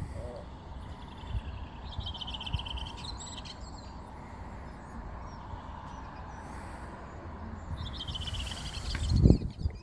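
A small bird calling in quick, high chirping trills: once about two seconds in and again near the end. Under it is a steady low wind rumble on the microphone, and a louder low rumble comes just before the end.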